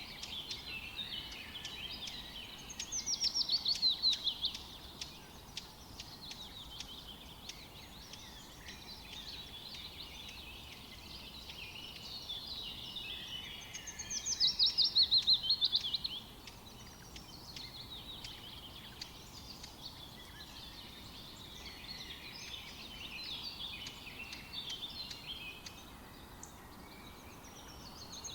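Several small songbirds chirping and twittering together without a break. One bird stands out twice, about three seconds in and again about halfway, with a loud song of rapid notes falling in pitch, each song about two seconds long.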